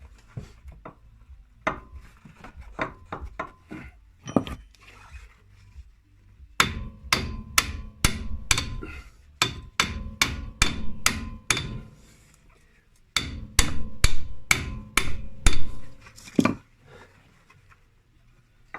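Hammer striking metal with a faint ring, in two quick runs of about three blows a second after some scattered lighter knocks. The blows come from work on the rear bushing of a car's front lower control arm.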